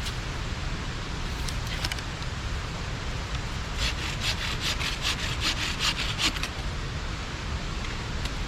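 Hand saw cutting wood, likely firewood for the campfire: a few strokes near the start, then a quick run of strokes midway. A steady rushing noise runs underneath.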